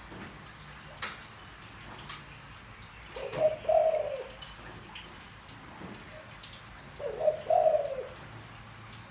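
Spotted dove cooing deep-voiced: two short phrases of several coos, about four seconds apart. A few faint clicks sound between them.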